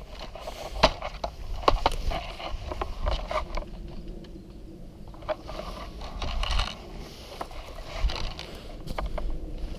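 Irregular clicks, knocks and scrapes over a low rumble: handling and movement noise.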